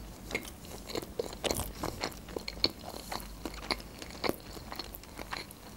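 Close-miked chewing of a mouthful of food with the mouth closed: a steady run of small, sticky mouth clicks, several a second.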